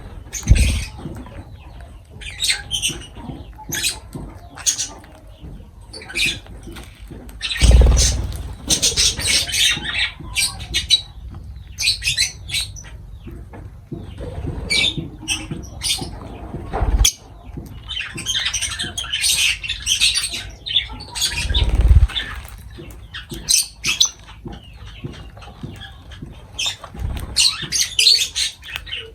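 Lovebirds chirping and squawking in rapid, short, shrill calls, with about five dull low thumps scattered among them.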